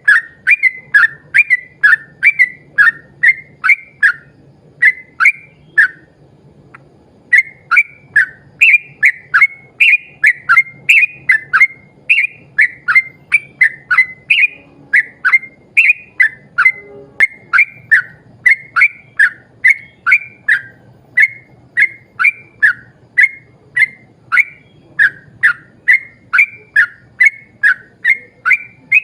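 Yellow-vented bulbul (trucukan) calling in a long, loud run of short, sharp whistled notes, about two a second, with a brief pause about six seconds in.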